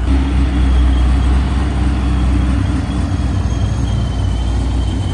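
A car's engine and exhaust rumbling loudly at low speed, a steady deep drone as the car rolls in to park.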